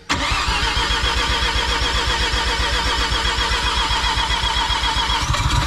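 Mazda FD RX-7's semi-peripheral-port rotary engine cranking on its starter motor at its first start, not yet catching. The starter cuts in suddenly and keeps up a steady whine over fast, even low pulses.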